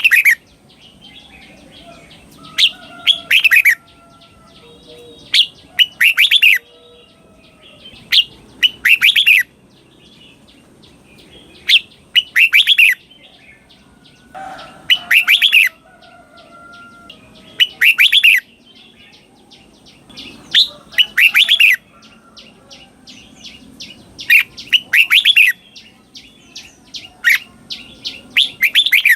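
Red-whiskered bulbul singing its doubled-phrase song: loud, quick, warbling phrases come every two to three seconds, with fainter chirping between them.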